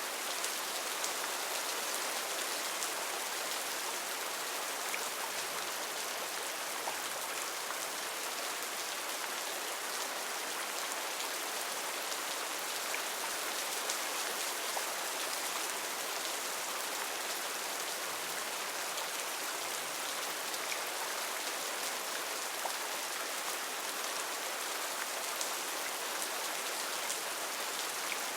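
Heavy rain falling steadily, an even hiss with scattered individual drops ticking on leaves and surfaces.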